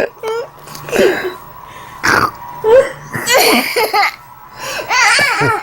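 A small boy making snorting, pig-like noises in short bursts, with laughter in between.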